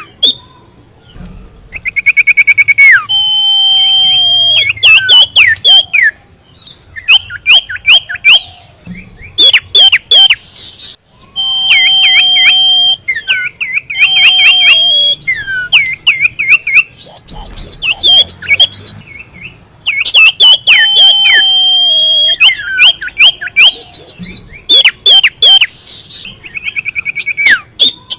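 Common iora (sirtu, cipoh) song. Long level whistles alternate with quick runs of short downward-sweeping notes and chatter, and the same phrases repeat again and again.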